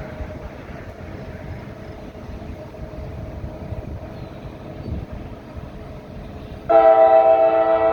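Low rumble of an approaching diesel freight train, then, near the end, a locomotive air horn starts abruptly and holds a loud chord of several notes.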